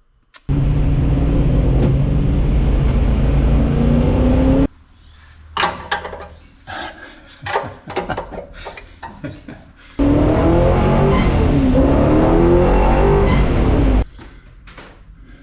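Small-block Chevy V8 in a 1964 Buick Special running hard: a loud burst with its pitch rising, cut off suddenly after about four seconds. Quieter clicks and knocks follow, then about ten seconds in a second loud burst, its pitch rising and falling, that stops abruptly near the end.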